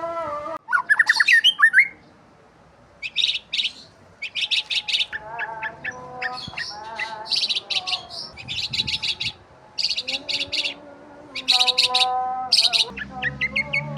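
Small songbirds chirping and singing: repeated half-second bursts of rapid high trills, with quick rising chirps about a second in and lower held warbling notes in between.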